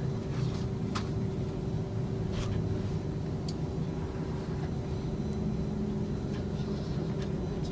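Steady running noise and low hum heard inside the passenger cabin of a KTX high-speed train moving through a station, with a few faint clicks.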